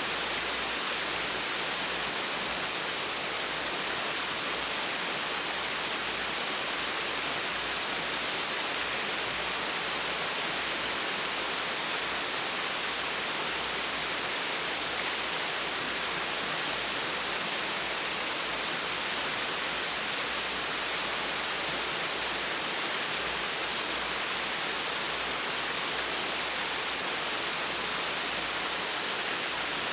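Gentle waterfall: water falling and splashing in a steady, unbroken rush.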